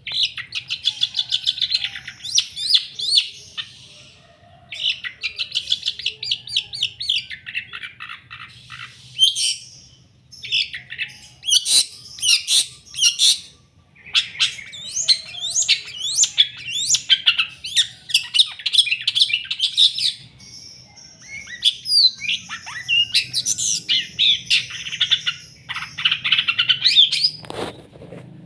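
White-tailed long-tailed shrike (cendet) singing in full voice: long runs of rapid, varied, scratchy chattering phrases in bouts, broken by short pauses.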